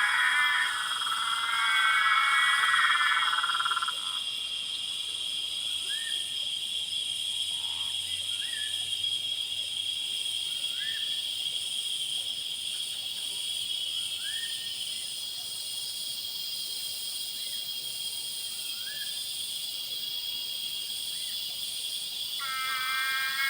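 Dusk chorus of frogs and insects: a steady high-pitched trilling throughout. A loud, buzzing frog call fills the first four seconds and starts again near the end, and a short rising chirp repeats every couple of seconds in between.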